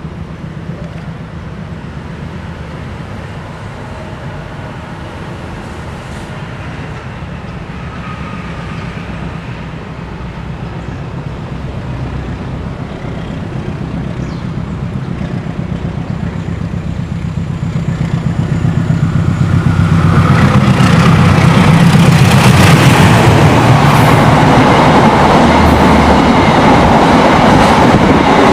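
Diesel locomotive-hauled passenger train approaching, its low engine drone growing slowly louder, then passing close and much louder from about 20 seconds in.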